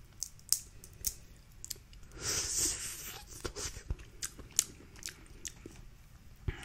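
Close-up eating sounds of a seafood boil: chewing and biting with scattered sharp, crunchy clicks, and a louder noisy stretch lasting about a second, about two seconds in.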